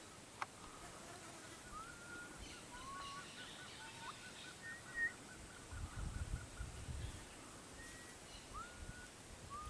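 Rainforest birds calling: short rising whistles and a fast trill of evenly repeated notes lasting about three seconds, with a low rumble around six seconds in.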